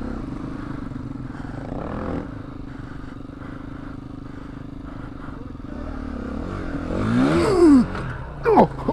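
Dirt bike engine running at a steady note, then rising and falling and growing loud about seven seconds in as the bike is ridden hard.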